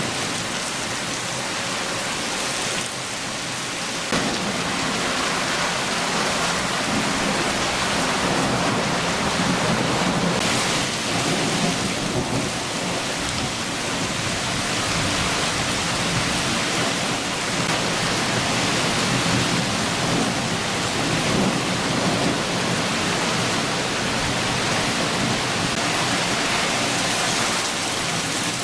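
Heavy rain shower falling steadily, with low thunder rumbling underneath. The rain grows louder about four seconds in.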